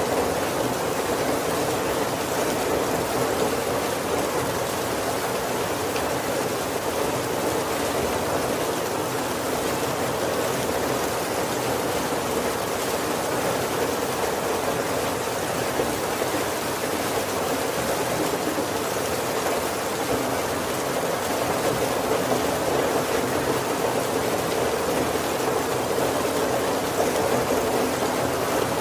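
Steady heavy rain drumming on the wooden roof of a carriage, heard from inside as an even, unbroken hiss.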